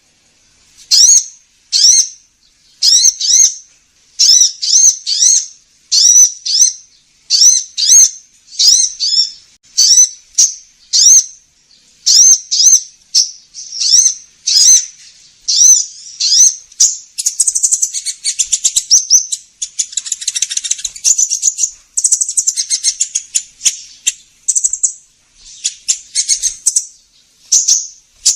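Recorded sunbird ('kolibri ninja') calls played as a bird lure. Sharp high chirps come in groups of two or three about a second apart, then break into faster twittering trills about halfway through.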